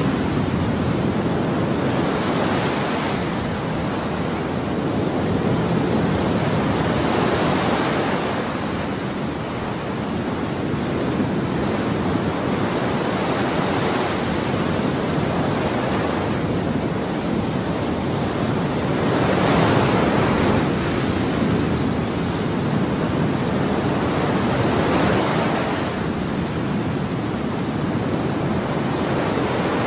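Ocean waves breaking and washing in, a continuous hiss of surf that swells and eases every few seconds.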